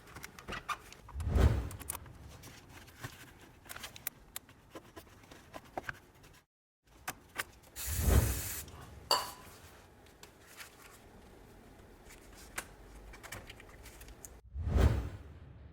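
Hand tools and parts being handled during cooling-system work on a van: scattered small clicks and metallic clatter, with three louder knocks about 1.5, 8 and 15 seconds in. The middle knock comes with a brief hiss.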